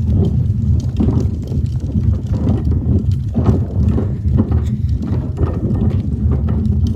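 Outdoor ambience while walking: a steady low rumble with irregular knocks and scuffs, no voice.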